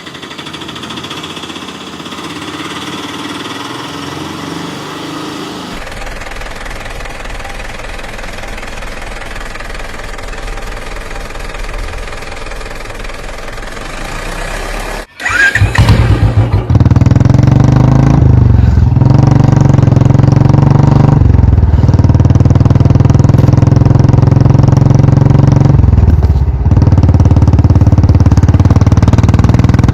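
A motor running steadily; about halfway through it gives way, after a brief break, to a much louder engine drone that holds steady with slight dips.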